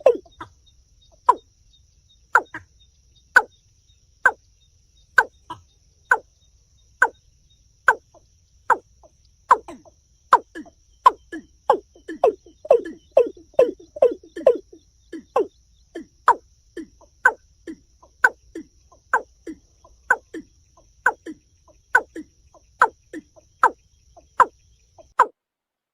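Watercock (kora) calling: a long series of short hollow notes, each dropping quickly in pitch, about one a second, with a quicker run of lower notes near the middle.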